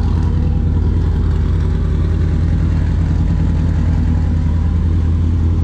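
Car engine running at a steady speed, a constant low drone with no revving.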